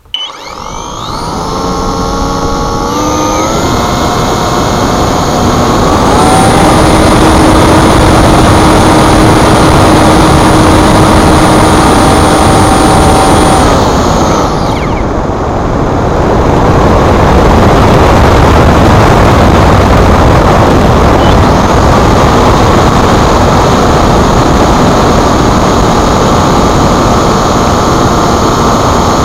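Electric motor and propeller of a Multiplex Blizzard RC model spinning up to full throttle, its whine rising in steps over the first few seconds. It then runs flat out with a loud steady whine and heavy rushing air. About halfway through it eases off briefly, then runs up to full power again.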